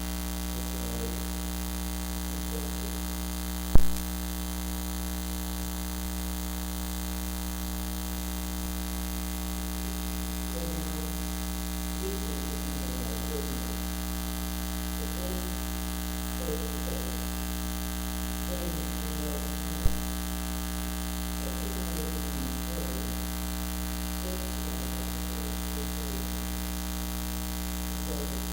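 Steady electrical mains hum and buzz on the recording's sound feed, the fault behind the service's bad sound, with faint muffled voice patterns underneath. Two sharp clicks break through, about four seconds in and again near twenty seconds.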